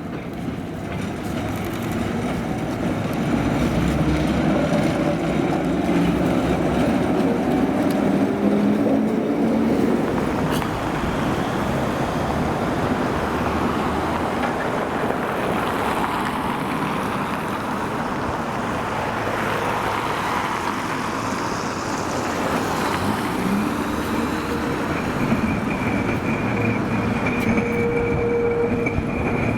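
Tram running along its rails: steady rolling and motor noise with tones that rise and fall as it drives, and a thin high steady tone coming in near the end.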